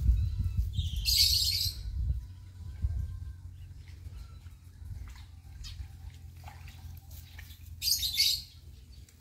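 Birds chirping faintly, with two short, harsh, high-pitched hissing bursts, one about a second in and one near the end, and a low rumble in the first couple of seconds.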